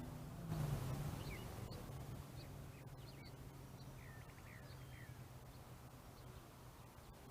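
Faint outdoor ambience with small birds chirping in short, scattered calls, over a steady low hum.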